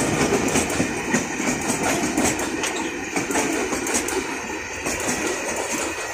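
Open box wagons of a Pakistan Railways goods train rolling past close by, their wheels clicking over the rail joints. The sound gradually fades as the last wagons and the brake van go by.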